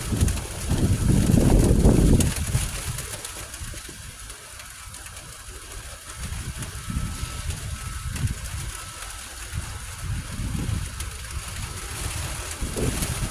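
Severe thunderstorm: a deep rumble swells over the first two seconds and dies away by about four seconds in, followed by weaker rumbles that come and go over a steady hiss.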